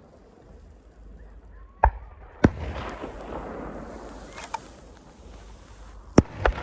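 Aerial fireworks shells bursting: four sharp bangs, a pair about two seconds in and another pair near the end, with a fainter noisy trail and a few small crackles between them.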